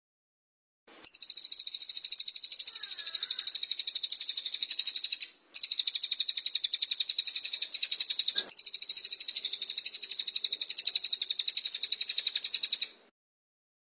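A songbird's fast, evenly pulsed high buzzing trill, kept up for about twelve seconds with one short break about five seconds in, played as masteran birdsong.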